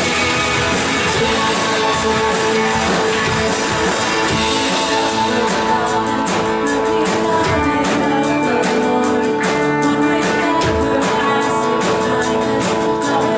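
Live worship band playing an instrumental passage between sung lines: strummed guitars over sustained chords, with drum hits coming in steadily about halfway through.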